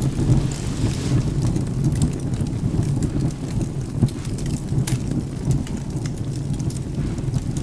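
Rain with a steady low thunder rumble, over sparse sharp crackles of burning wood; one louder crackle about five seconds in.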